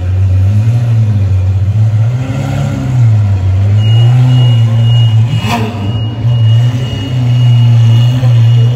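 A car engine running and being revved, its pitch rising and falling in slow waves, with a single sharp crack about halfway through.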